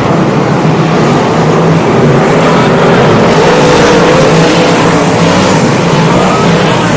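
360 sprint cars' V8 engines running at racing speed, several loud engine notes overlapping, their pitches wavering up and down.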